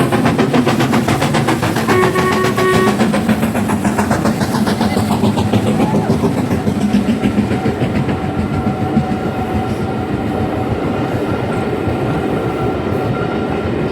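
Steam locomotive hauling its carriages past, its exhaust beating in a fast, even rhythm. A short whistle blast sounds about two seconds in. The sound eases off slowly toward the end as the train draws away.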